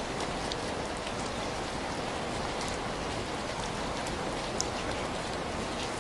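Steady rain, an even hiss, with a few scattered sharp ticks; the clearest comes about three-quarters of the way through.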